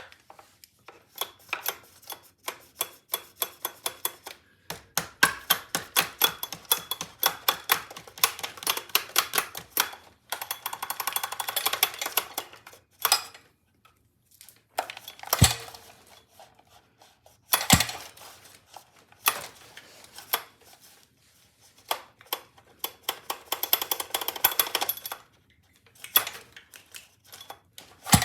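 Runs of rapid clicking and rattling lasting a few seconds each, with three sharper knocks about halfway through, from a gas scooter's recoil pull-starter being tugged. The starter is very stiff and its cord gets stuck, and the engine does not catch.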